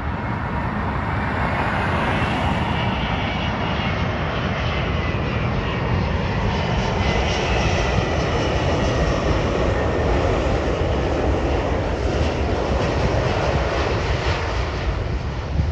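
Airbus A380 jet airliner's engines running as it flies by: a continuous jet roar with a faint steady whine, swelling to its loudest about halfway through and easing slightly near the end.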